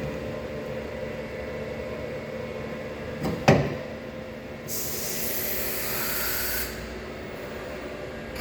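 Pouwels DEF 1000 CNC wood router's machinery running with a steady hum. A single sharp clunk comes about three and a half seconds in, and shortly after it a hiss lasting about two seconds.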